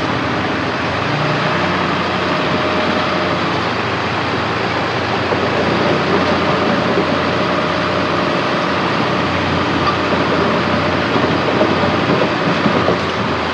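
Heavy diesel earthmoving machinery running steadily, a deep engine drone with light clanks and rattles coming in over the second half.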